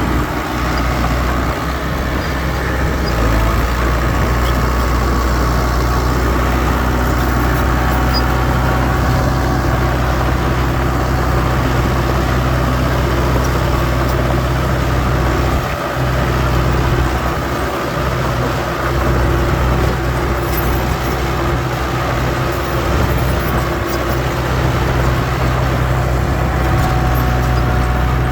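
Diesel engines of heavy earthmoving machinery, dump trucks or a bulldozer, running steadily with a low drone, dipping briefly a couple of times in the middle.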